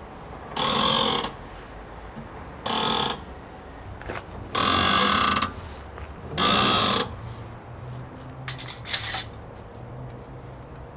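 Worn strut tower (top mount) bearings squeaking and grinding in five short bursts as the steering is turned with the wheels off the ground: the bearings are shot.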